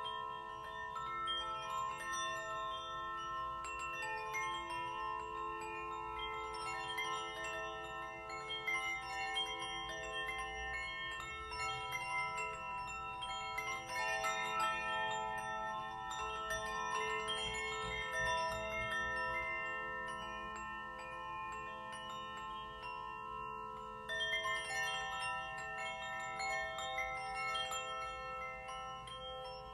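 Metal chimes and a steel tongue drum (glucophone), many struck notes ringing on and overlapping into a sustained wash of tones. A fresh cluster of notes is struck about 24 seconds in.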